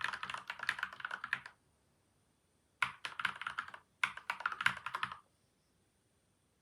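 Fast typing on a PCL87 mechanical keyboard fitted with lubed Gateron milky white and Outemu yellow switches, damped with tape and foam mods. It comes in three quick runs of keystrokes with short pauses, and the typing stops about two-thirds of the way in.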